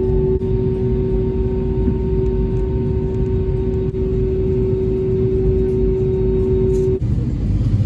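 Airbus A320 cabin noise: a steady low rumble with a constant humming tone over it. The tone cuts off abruptly about seven seconds in, leaving the rumble.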